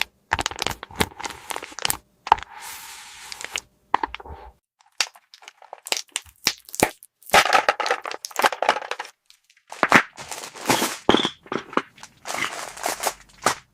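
Plastic toy parts and packaging being handled: a quick run of sharp clicks and crackles, with a stretch of crinkling about two to four seconds in.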